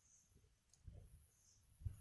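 Wood fire burning in a Picogrill 398 fire pit, crackling faintly with scattered soft pops and one sharper pop near the end.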